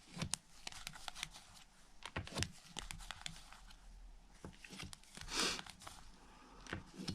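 Playing cards being handled and laid out: scattered light snaps and slaps of cards, with a brief sliding rustle about five seconds in.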